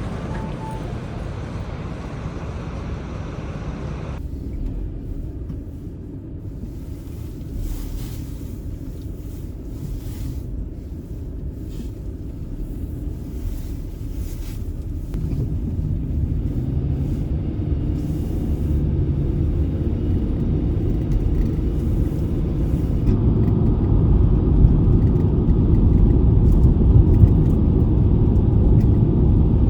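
Car driving on the road: a steady low rumble of engine and tyres that grows louder about halfway through and again near the end.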